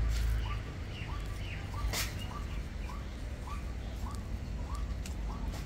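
A bird calling over and over, a short hooked chirp about twice a second. A low rumble fades out in the first half second, and there is a single sharp click about two seconds in.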